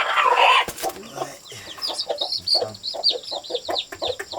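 Chickens clucking, with a loud burst at the very start, then many short high peeps over the clucks from about two seconds in.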